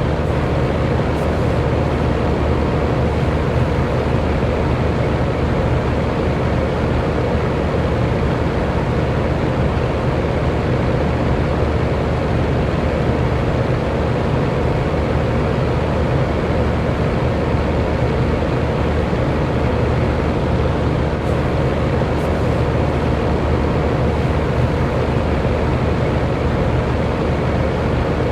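Electric fan running steadily: a constant whoosh of moving air with a low motor hum, even and unchanging throughout.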